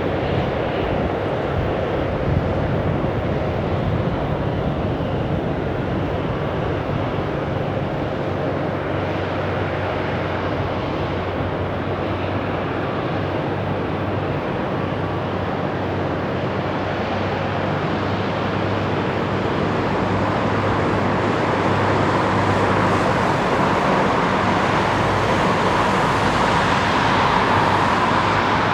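Jet engines of a Boeing 777F freighter (General Electric GE90 turbofans) running steadily, with a whine that grows stronger over the last several seconds as the sound gets a little louder.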